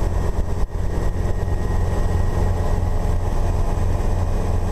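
Guimbal Cabri G2 helicopter's rotor and four-cylinder piston engine running steadily at takeoff power, a dense low drone, with a brief dip in level under a second in.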